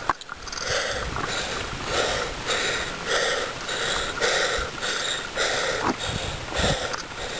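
A man panting heavily after cycling up a steep hill: quick, even breaths in and out, about two a second.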